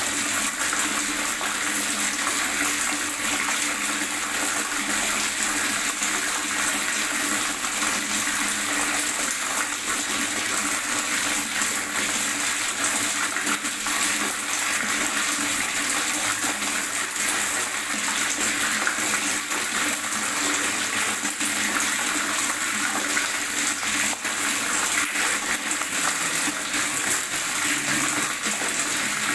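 Water gurgling steadily as one continuous, even rush of sound.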